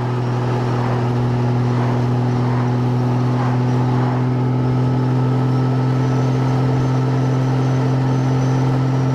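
Motorcycle engine running at a steady cruising speed, a constant low drone with no change in revs, mixed with road and wind noise.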